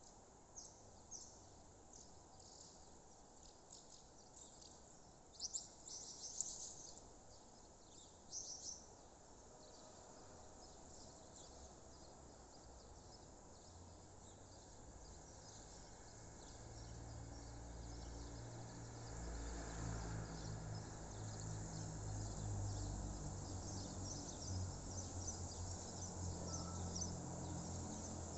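Outdoor dawn soundscape: birds chirping briefly in a few short clusters over a steady high chirring of insects such as crickets. A low rumble builds from about halfway through.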